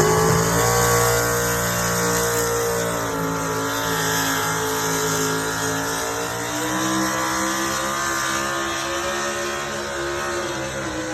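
4WD pulling truck's engine revving high, pitch climbing at the start and then holding with small wavers, getting gradually quieter.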